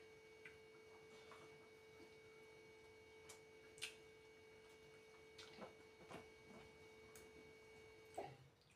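Near silence: a faint steady hum with a few soft, scattered clicks.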